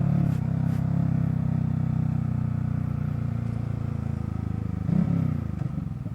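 Single-cylinder motorcycle engine running at a steady speed, its pitch sinking slowly, with a quick throttle blip about five seconds in before it drops toward idle.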